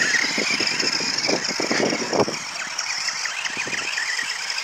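RC car's motor whining steadily as it drives over a dirt track, with a rapid patter of crunches and clicks from the tyres and ground.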